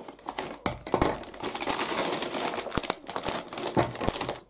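Crinkling and rustling of a taped-shut shopping bag being cut open and pulled apart, with scattered sharp clicks. It starts about half a second in.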